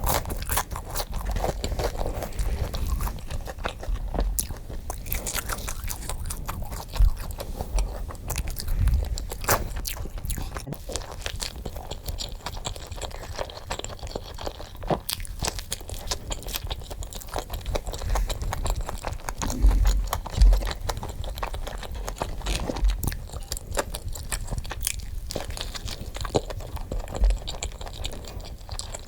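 Close-miked eating: dense, irregular crunching and chewing of food, sped up, with frequent sharp crackles and soft low thumps.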